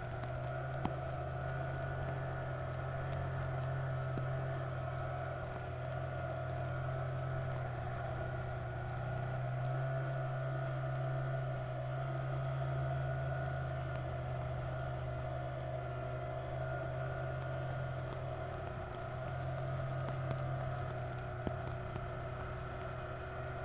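A motor vehicle's engine running at a steady, even speed with a constant low hum, and scattered small clicks over it.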